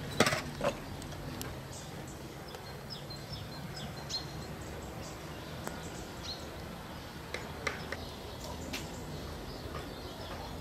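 Birds chirping faintly over a steady outdoor background hum, with a few sharp knocks, the loudest just after the start.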